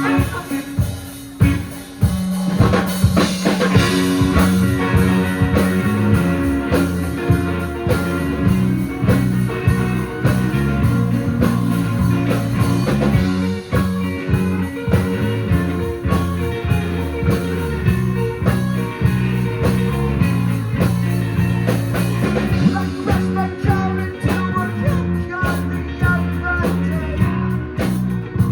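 Live rock band playing an instrumental passage on drums, guitars and bass, the full band coming in about two seconds in.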